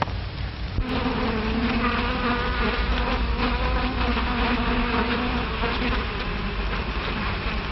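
A bee buzzing, a wavering drone that starts about a second in, heard over the steady hiss and crackle of an old film soundtrack.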